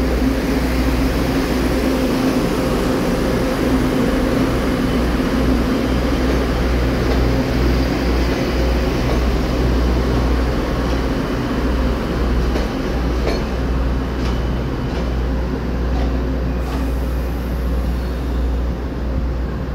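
Diesel multiple-unit passenger train pulling out and running away along the track: a steady low engine drone under wheel and rail noise, easing a little near the end, with a few light clicks in the second half.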